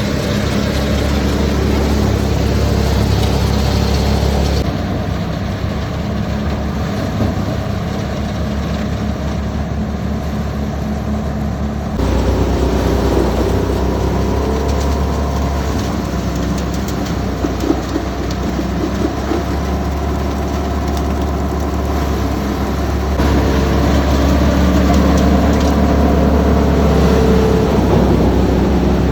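Sonalika tractor's diesel engine running steadily under a paddy thresher. The sound jumps abruptly to a different mix about 5, 12 and 23 seconds in.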